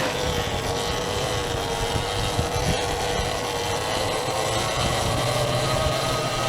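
Sur-Ron Ultra Bee electric dirt bike riding along a trail: the motor and drivetrain whine steadily, dipping a little in pitch in the first couple of seconds and climbing again near the end as speed changes, over a rushing haze of tyre and wind noise.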